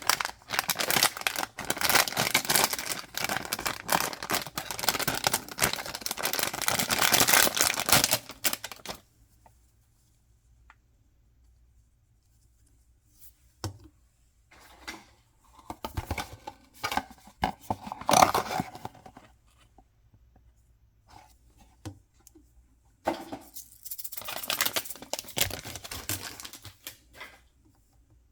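Packaging being torn open by hand, with long stretches of ripping and crinkling. It stops about nine seconds in, gives way to scattered handling noises, and then a second shorter spell of tearing comes near the end.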